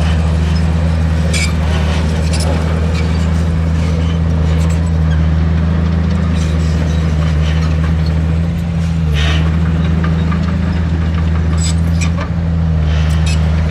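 Heavy diesel earthmoving machinery running steadily under load, a deep engine drone with a few sharp clanks, likely from stone or the machine's metal parts.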